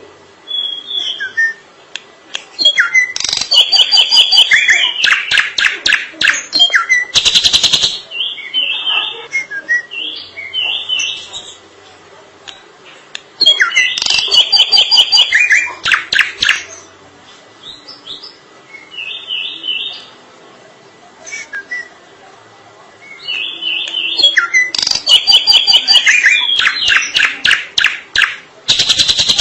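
Drongo singing: three loud bursts of dense song made of rapid runs of clicking notes and whistles, with short separate whistled phrases in the gaps between them.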